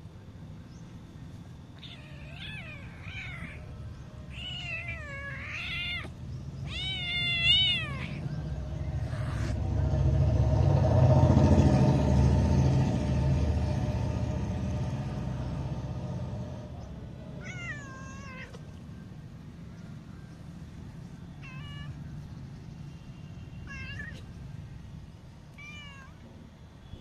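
Cat meowing repeatedly: three drawn-out, wavering meows in the first eight seconds, then a few shorter ones later on. In between, a loud low rumble swells up, peaks about eleven seconds in and fades away.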